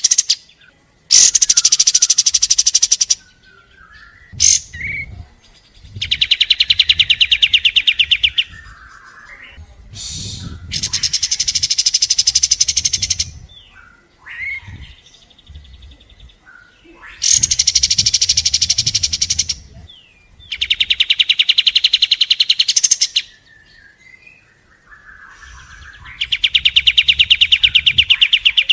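Kapas tembak singing its rapid-fire song: about seven fast, dense, pulsed trills, each about two seconds long, repeated every few seconds, with short chips between them.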